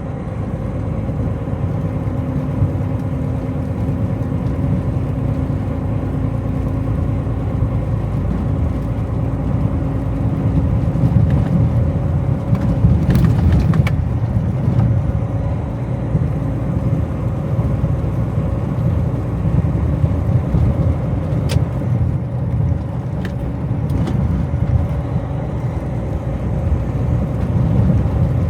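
Tractor-trailer cruising at highway speed: steady engine and road drone, with a few short clicks about halfway through and again a little later.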